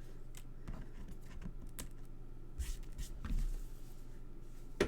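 Light clicks, taps and rustles of die-cut cardstock pieces being handled on a crafting desk, with one sharper click near the end.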